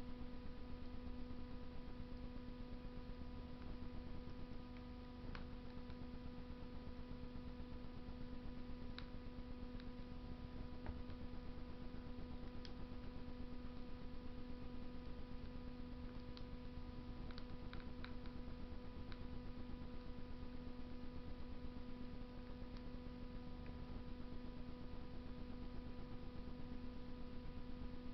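Wood fire burning in a Russian stove, giving a few sparse crackles and clicks, over a steady electrical hum.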